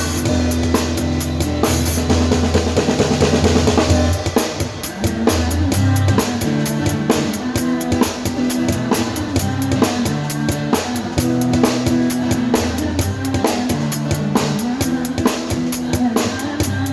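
Acoustic pop music: an acoustic guitar with a drum kit keeping a steady beat on bass drum and snare, with rimshots.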